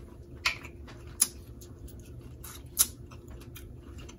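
Snow crab shells being cracked and picked apart by hand: three sharp snaps, about half a second, a second and a quarter and nearly three seconds in, among softer clicks and crackles.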